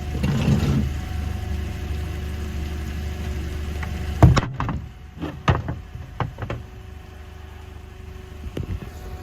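Vehicle engine idling with a steady low hum, then a loud thump about four seconds in, followed by several sharper knocks and clicks.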